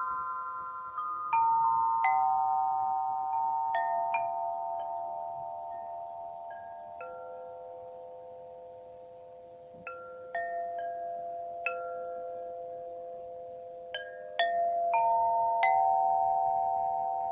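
Daiva, a suspended metallophone, struck a note or a few notes at a time every few seconds; each tone rings on for many seconds and slowly dies away, so the notes overlap into a sustained chord.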